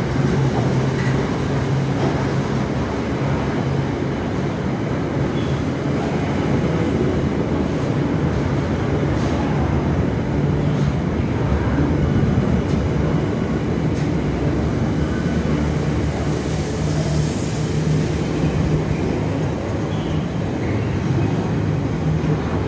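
Container wagons of a freight train rolling past close by: a steady noise of steel wheels on the rails, with a few faint clacks in the middle.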